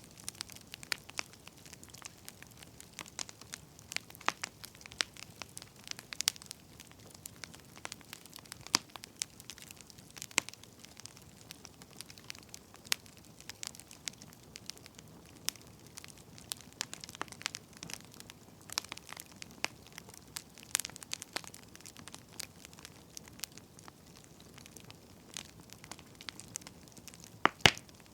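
Wood fire crackling: irregular sharp pops and snaps over a soft low hiss, with one louder pop near the end.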